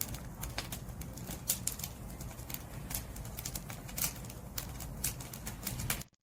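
Wood fire burning: irregular crackles and sharp pops from the firewood over a steady low rumble of the flames, cutting out suddenly near the end.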